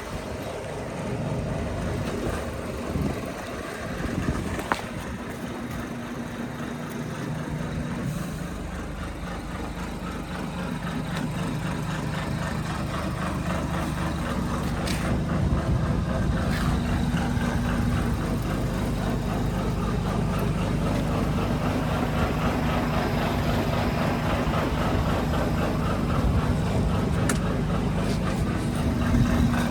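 Scania P500 truck's diesel engine idling steadily, growing gradually louder over the first twenty seconds, with a few faint clicks.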